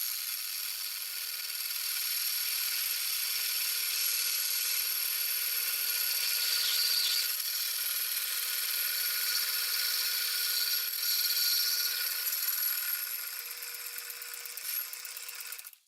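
Seneca Falls Star 10 metal lathe running while its cutting tool turns down the diameter of the workpiece: a steady scraping hiss with a faint steady whine, easing off a little near the end and cutting off suddenly just before the end.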